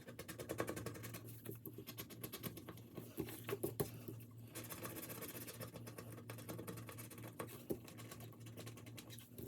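Paper cash and envelopes being handled: a faint, dense run of rustling and small crinkling clicks, over a faint steady hum.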